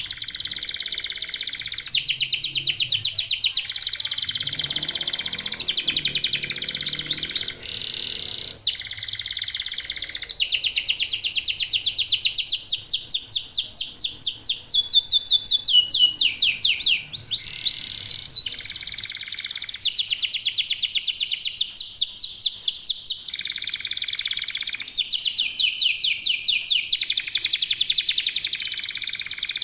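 Male domestic canaries singing full song: a continuous, high-pitched string of fast trills and rolls, each run of rapid repeated notes switching to a new phrase every second or two.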